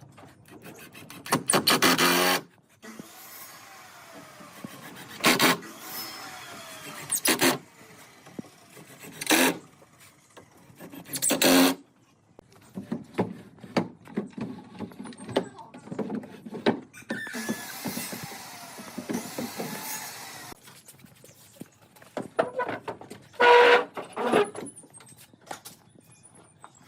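Woodworking sounds: about seven short, loud bursts of power-tool noise on wood, and one longer run of about three seconds past the middle, with knocks and handling clatter in between.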